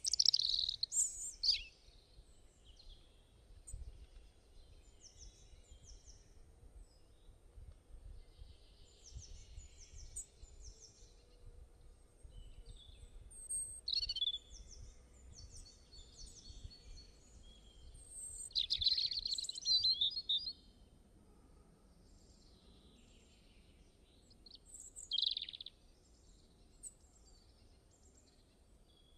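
Several birds chirping and trilling on and off, with louder bursts of song near the start, about two-thirds of the way in, and once more near the end, over a faint low rumble of background noise.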